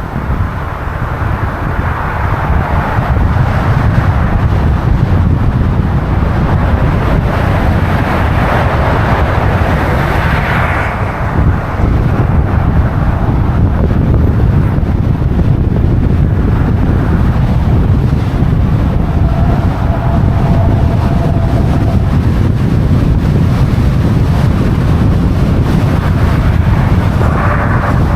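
City street traffic noise under heavy wind buffeting on the microphone: a loud, steady low rumble with no distinct events.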